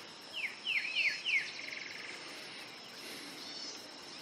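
Bird chirps: a quick run of four falling chirps, then a short buzzy trill, over a steady high-pitched whine.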